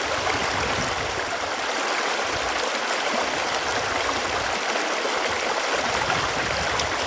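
Running water flowing steadily: an even, unbroken rush with no pauses or changes.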